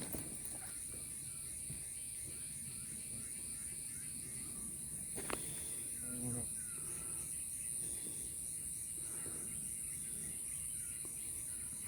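Steady high-pitched insect chorus with a faster pulsing trill just below it. A single sharp click about five seconds in.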